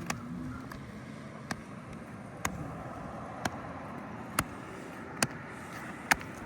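A series of about seven short, sharp clicks, evenly spaced at about one a second, over a steady background hiss.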